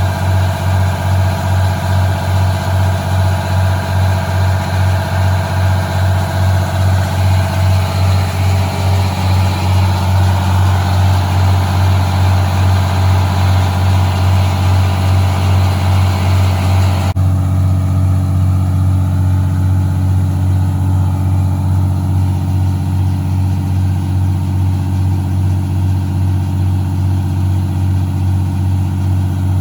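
Detroit Diesel engine of a 1977 Ford fire truck running steadily with an even pulse while the truck drafts water. A little over halfway through, the higher hiss and tones drop away suddenly and the low engine note carries on.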